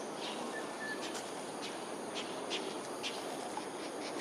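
Outdoor ambience: a steady hiss with scattered short, high chirps and ticks, and one brief whistle-like tone about half a second in.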